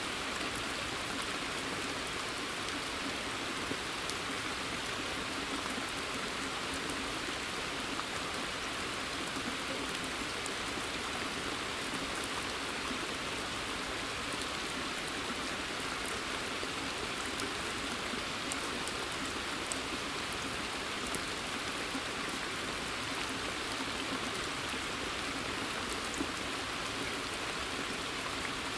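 Steady rain falling in a forest: a dense, even hiss of rain with scattered individual drops ticking.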